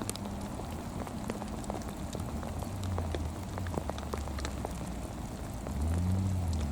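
Rain pattering in scattered sharp drops, over the low drone of a distant racing car engine that grows louder and bends in pitch near the end.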